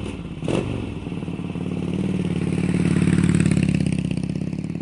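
2010 Harley-Davidson Fat Boy Lo's air-cooled V-twin running through Vance & Hines aftermarket exhaust, swelling louder partway through and then easing back.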